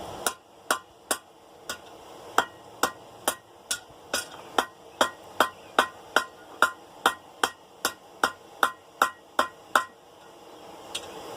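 Hand hammer striking hot half-inch round steel bar on the anvil horn, bending it into a tight hoop: a steady run of about two dozen ringing blows, roughly two and a half a second, that stops about ten seconds in.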